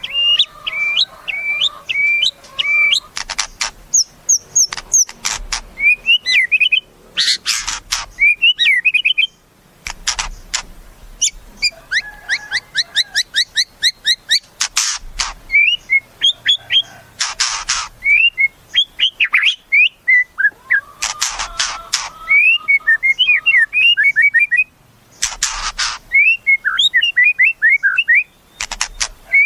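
White-rumped shama (murai batu) singing a long varied song of clear whistled phrases and quick trills. Every few seconds it breaks into a loud, harsh rattle.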